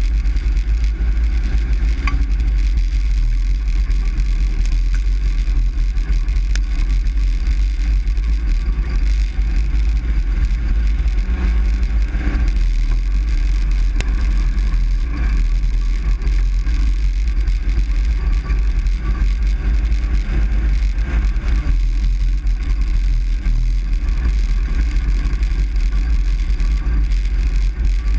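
Truck engine and road noise heard from inside the cab while driving: a steady, loud low rumble with no change in pace.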